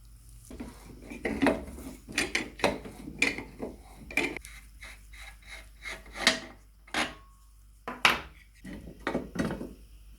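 Hand work on metal parts: about a dozen short scraping and clinking strokes at irregular intervals.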